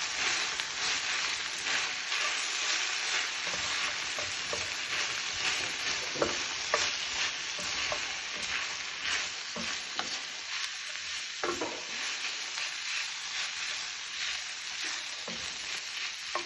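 Chicken and cabbage stir-fry sizzling steadily in a hot pan while being stirred, with the utensil scraping and knocking against the pan every second or so.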